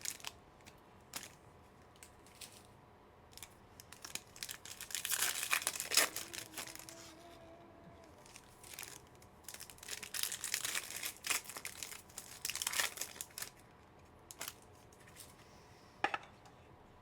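Trading card pack wrappers being torn open and crinkled, in irregular rustling bursts, with a sharp click near the end.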